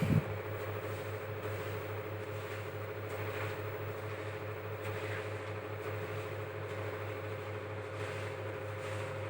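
Steady low electrical hum with an even hiss and two faint steady tones, unchanging throughout; a short thump right at the start.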